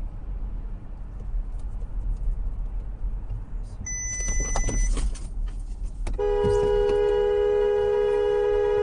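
Road rumble inside a moving car with a short electronic beep and a few sharp knocks around four to five seconds in. From about six seconds in, a dual-tone car horn is held down in one long, steady blast.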